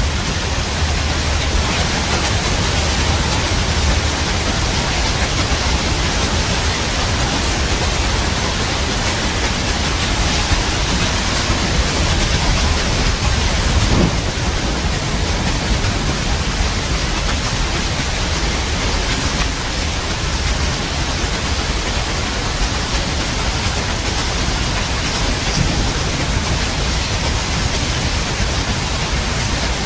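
Steady heavy rain with low rumbles of thunder, and one brief louder peak about halfway through.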